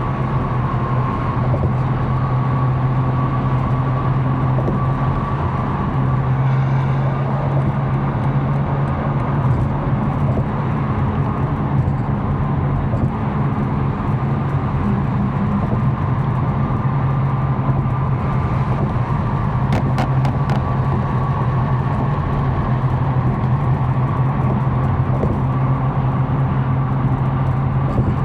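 Tuned BMW M4's twin-turbo straight-six engine droning at a steady cruise, with tyre and road noise. Two light clicks sound about two-thirds of the way through.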